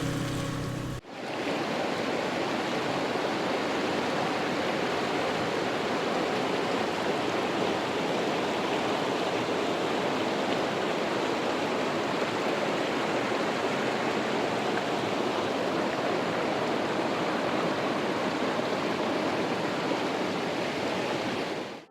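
Steady rush of fast-flowing water, even and unbroken, beginning with a sudden cut about a second in as background music stops.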